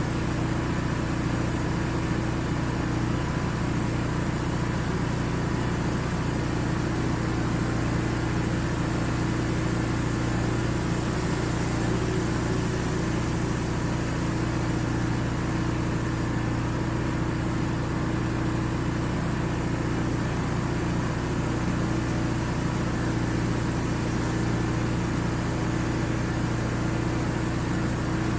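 Pressure washer's engine running steadily at a constant pitch, with an even hiss of spray over it.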